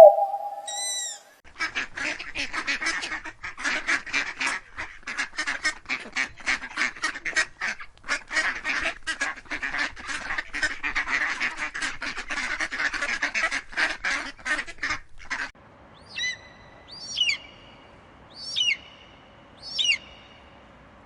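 A group of ducks quacking in a dense, overlapping chatter for about fourteen seconds. The sound then cuts to an eagle giving four separate high, shrill calls about a second apart.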